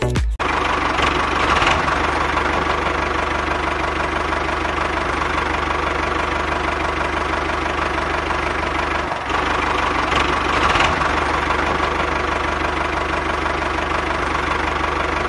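A small motor running steadily, with a brief dip about nine seconds in.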